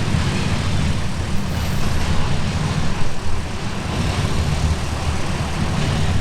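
Freight train of grain hopper cars rolling past: a steady, loud rumble of steel wheels on the rails, with a few brief knocks.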